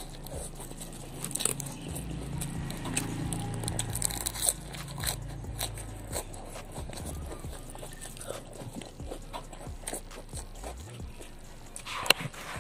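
Close-up eating sounds: raw lettuce leaves and other raw salad greens crunching and being chewed, with many short crisp crunches and wet mouth sounds. A single sharp click sounds near the end.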